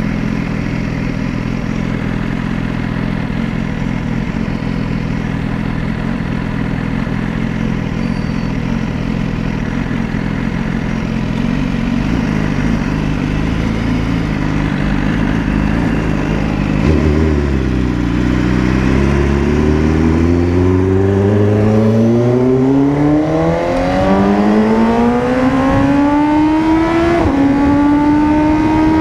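BMW S1000RR's inline-four engine running at a steady note, then, a little past halfway, accelerating hard, its pitch climbing steeply through a couple of gear changes.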